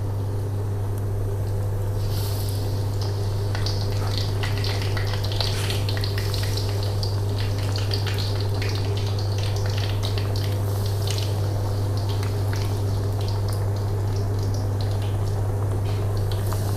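Tempe pieces sizzling and crackling in hot oil in a wok as they go in, the spattering picking up about two seconds in, over a steady low hum.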